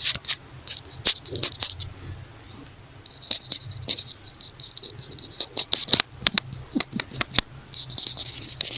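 Close-miked scratching and tapping on a notebook cover: irregular sharp clicks mixed with short raspy scrapes, with no regular rhythm.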